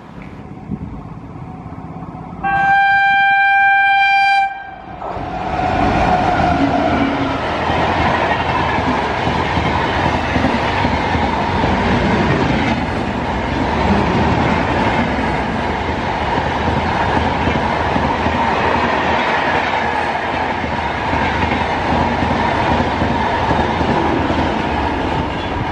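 Electric locomotive's horn sounding one steady blast of about two seconds, then a long passenger train passing at speed close by: the rumble and clatter of the coaches' wheels, which cuts off suddenly at the end.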